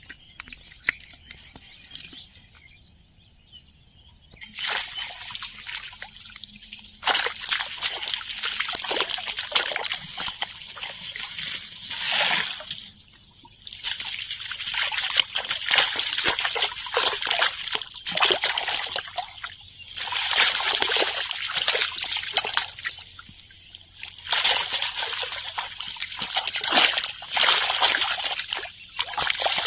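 Water splashing and sloshing in irregular bursts, starting about four seconds in, as a fishing net is worked in shallow water.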